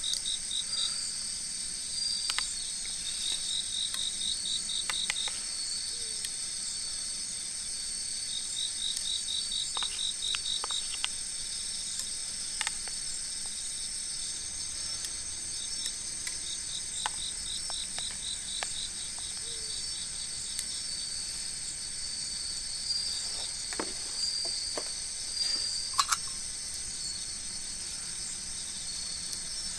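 Cricket-like insect chirping in rapid pulsed trills that come and go every few seconds over a steady high-pitched insect hum. A few sharp crackles from the campfire are scattered through it.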